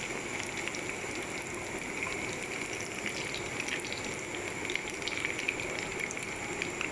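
Breadcrumb-coated rice and chicken rolls deep-frying in hot oil in a pan: steady sizzling with many small crackles.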